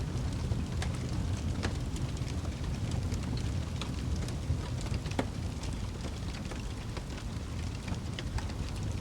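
Wood fire burning in a fireplace: a steady low rumble of flame with many scattered sharp crackles and pops from the burning wood.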